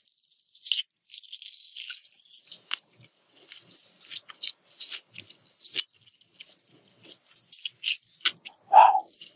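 Close-up chewing of a crispy Indonesian duck-egg savory pancake (martabak telur): many small, sharp crackles and wet mouth sounds. There is a louder, lower mouth sound near the end.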